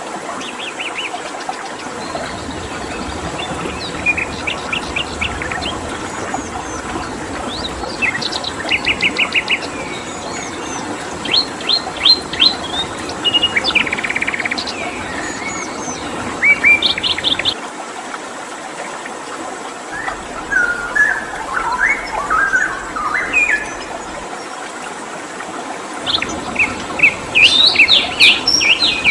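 Several songbirds chirping and trilling, with quick runs of repeated notes, over a steady rushing background of flowing stream water.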